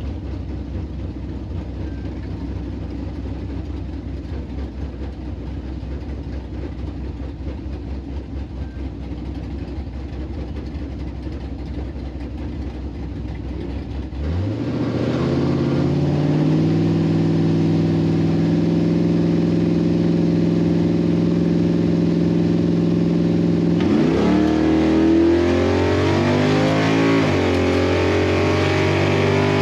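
Drag car V8 rumbling low, then about halfway through revving up sharply and holding at high rpm, with a second rise in pitch near the end.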